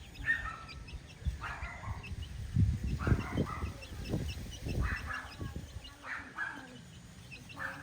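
Chickens on a poultry farm: short louder calls about every second and a half over a steady run of high, quick chick peeping, with low knocks underneath.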